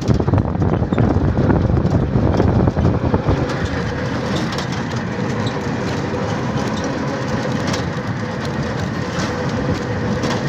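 Train running along the track: a steady rumble with irregular rail clatter, a little quieter after the first few seconds.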